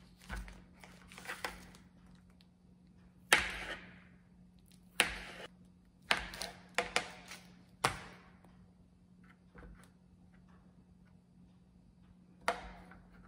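Kitchen knife slicing through a sausage and knocking on a plastic cutting board: sharp single knocks, a quick run of several in the middle and one more near the end. Soft crinkling of the sausage's plastic casing at the start.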